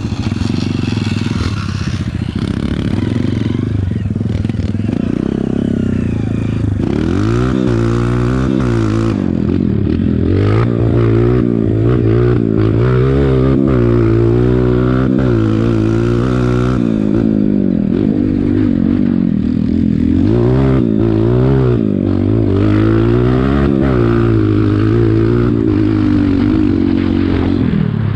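Dirt bike engine revving up and down over and over, its pitch rising and falling every second or two, as it is ridden on a motocross track; steadier in the first several seconds.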